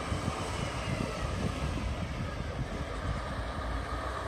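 Red regional train's passenger coaches rolling past on the station track: a steady rumble of wheels on the rails.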